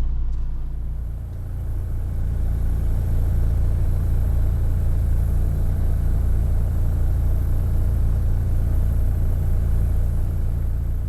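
Boat's outboard motor running steadily under way, a low engine rumble that eases briefly about a second in and then holds steady.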